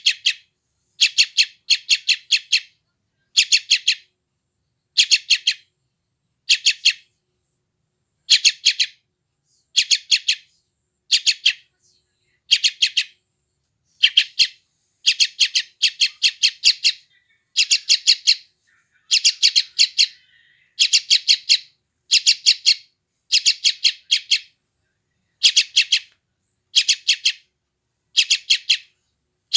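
Yellow-vented bulbul chick calling: short bursts of three or four rapid, high chirps, repeated about once a second with silence in between.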